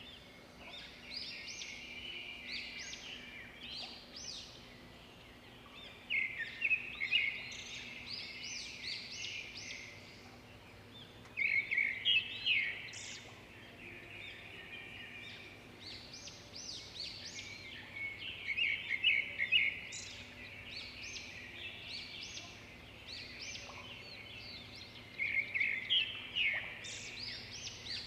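Birds chirping and calling without pause, with louder bursts of rapid, repeated calls every six or seven seconds, over faint steady background noise.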